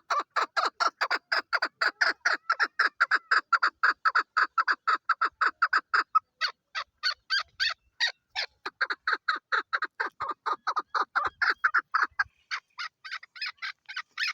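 Female chukar partridge (chakor) calling: a long rapid series of short repeated notes, about five a second, spacing out more slowly for a couple of seconds midway, then speeding up again and cutting off suddenly.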